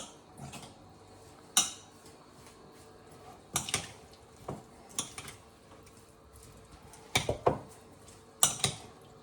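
Kitchen dishes, pots and utensils clinking and knocking as they are handled: about a dozen sharp knocks at irregular intervals, some in quick pairs.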